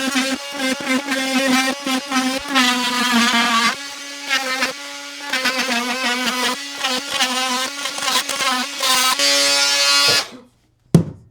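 Power saw cutting into a wooden subfloor: a high motor whine that wavers in pitch as the blade loads, running in several bursts with short pauses and stopping shortly before the end, followed by a single sharp knock. The blade strikes something hidden in the wood, which the user takes to be a nail.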